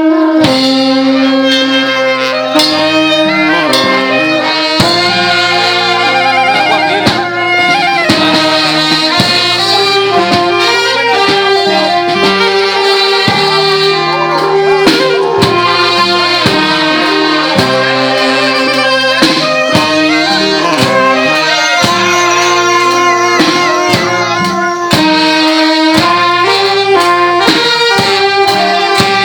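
Thai trae wong brass band playing a continuous melody on saxophone and brass, with regular drum and cymbal strokes beneath.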